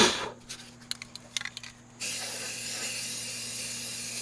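A knock and a few light clicks, then about two seconds in an aerosol spray-paint can starts spraying in a steady hiss.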